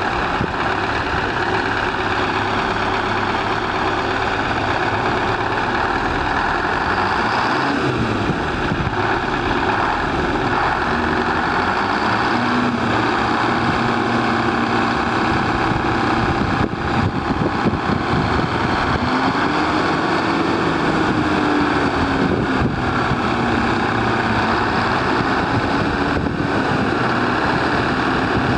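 1974 International dump truck's engine running, its pitch slowly rising and falling several times.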